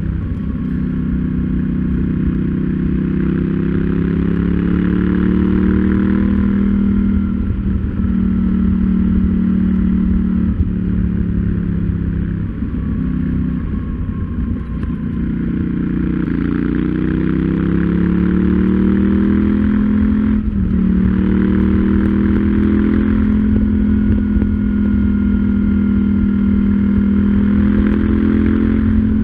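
KTM 790 Duke's parallel-twin engine on the move, pulling up through the gears: the pitch climbs and drops back at each of several upshifts. Near the middle it backs off and falls away, then builds again and settles to a steady cruise.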